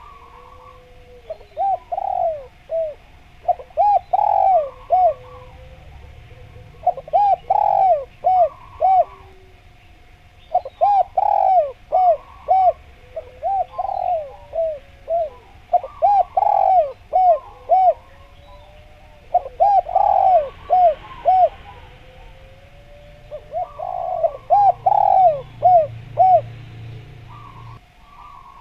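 Spotted dove (derkuku) cooing in repeated phrases of several quick coos, a phrase every three to four seconds, over a faint steady tone.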